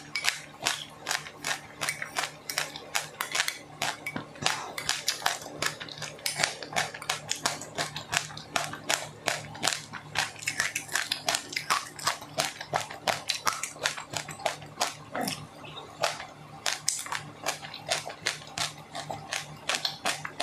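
Close-miked chewing of crunchy food, rapid crisp crunches about three or four a second, mouth sounds of someone eating seeds and crisped rice.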